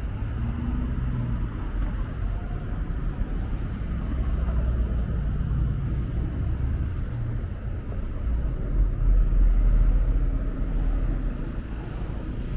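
Street traffic: a steady low rumble of a car, swelling to its loudest about nine seconds in as it passes close.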